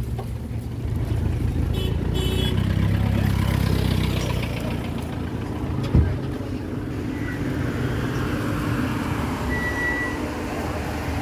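Car park traffic: vehicle engines running, a low rumble for the first few seconds, then a steady engine hum. One sharp knock about six seconds in and a short high beep near the end.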